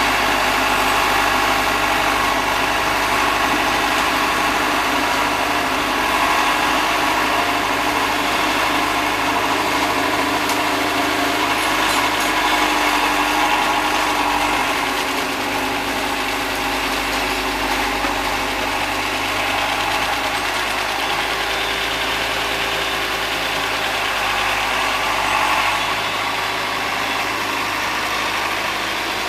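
Case David Brown 1212 tractor's three-cylinder diesel engine running steadily, with no break or change.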